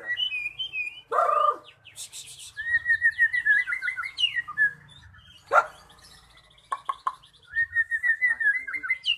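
White-rumped shama (murai batu) singing: two long runs of fast trilled notes, with sharp chirps and a few short harsh notes between them.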